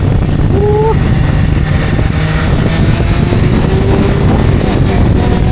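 Motorcycle engine running steadily while riding on the road, with road noise.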